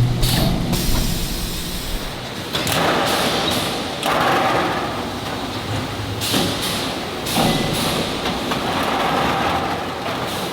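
Precast concrete factory work noise: repeated bursts of hissing and scraping, several seconds apart, with knocks and thuds.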